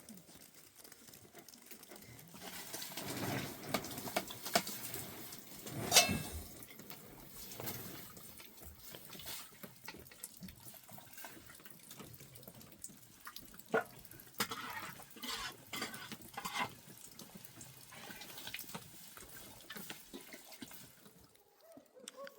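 Water splashing and trickling, with scattered knocks and clinks; the loudest knock comes about six seconds in.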